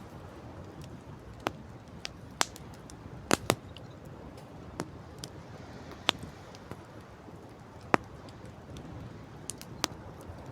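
Campfire crackling, with irregular sharp pops and snaps, the loudest a quick pair about a third of the way in, over a steady low rush of wind and surf.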